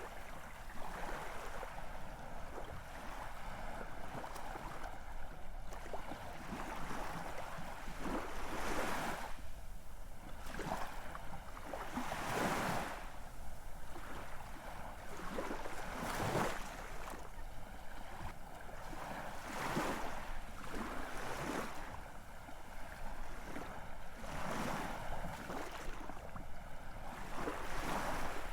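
Ocean waves washing onto the shore, a surge of surf every few seconds over a steady hiss of water.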